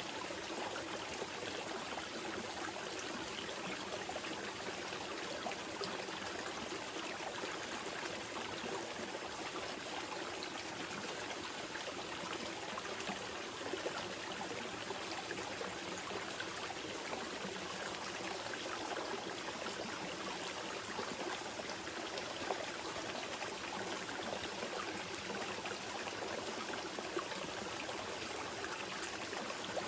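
Small mountain river flowing steadily over rocks, an even rush of water with small splashes and trickles.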